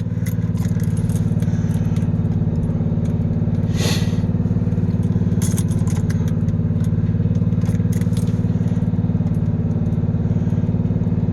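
Ignition key of a cold Ford Ranger diesel being cycled through its cold-start preheat before cranking: a few short clicks and a brief hiss about four seconds in, over a steady low mechanical hum.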